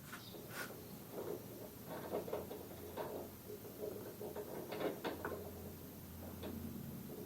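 Irregular small clicks and knocks of parts and tools being handled during work on a moped's front fork, with a faint low hum through the middle.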